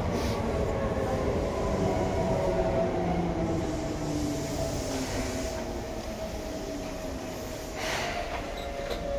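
Running sound inside a Seibu 2000 series electric train car: a steady rumble with a motor and gear whine that falls slowly in pitch as the train slows. A short rush of noise comes about eight seconds in.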